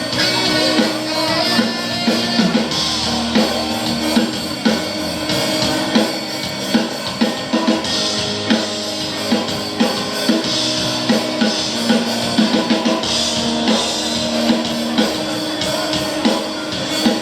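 Live band playing an instrumental passage at a concert sound check, with drum kit and electric guitar and a steady beat.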